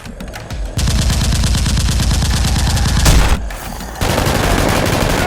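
Rapid automatic gunfire: a long run of quick shots starting about a second in, a loud bang near three seconds, a short lull, then rapid firing again.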